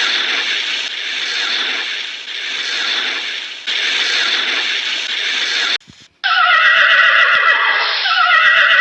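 A harsh, noisy sound for the first six seconds, then, after a short break, a horse whinnying in long calls that fall in pitch.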